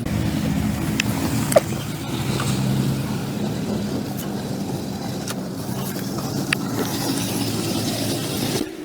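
An engine running steadily at low speed, with a few sharp clicks over it, cutting off abruptly near the end.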